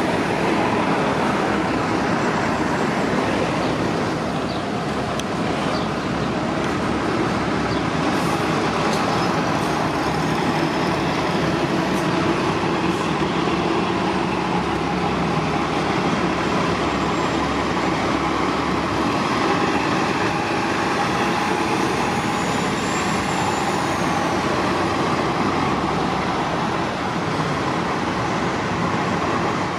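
City transit buses' engines running and moving at low speed, a steady dense rumble of traffic. A few sharp clicks come about a third of the way in, and a high whine rises and falls for a few seconds about two-thirds through.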